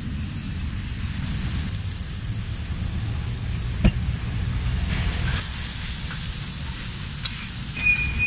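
Chopped tripe sizzling on a hot flat-top griddle, over a steady low rumble. A single sharp clack about four seconds in, and a steady high tone starts just before the end.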